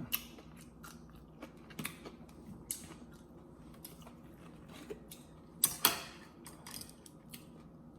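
Close-miked eating sounds: sparse mouth clicks and crunches of chewing, with a louder pair of crunches about six seconds in.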